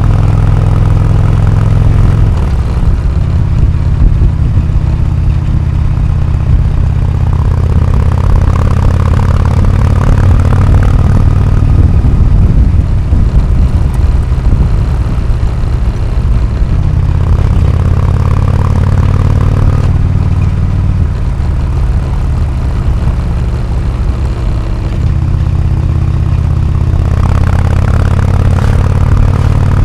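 Harley-Davidson Twin Cam 103 V-twin running through an aftermarket AMC HD4 exhaust, the engine note changing several times as the revs and load rise and fall.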